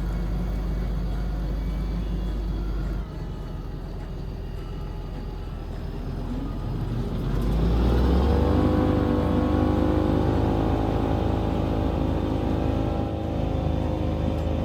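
Tractor engine running, dropping off about three seconds in and then building up to a louder, steady run with a held whine from about eight seconds.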